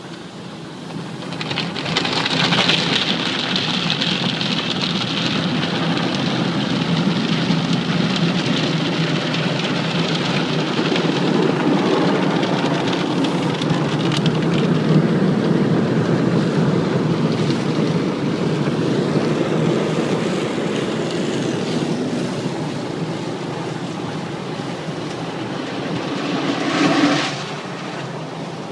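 Automatic tunnel car wash working over the car, heard from inside the cabin: a dense, steady rush of water spray and wash equipment on the body and glass. It swells about a second and a half in, holds, surges briefly near the end, then drops away.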